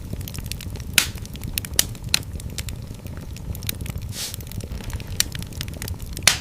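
Fire in a fireplace crackling over a steady low rumble of the flames, with sharp pops about a second in, around two seconds and near the end, and a brief hiss about four seconds in.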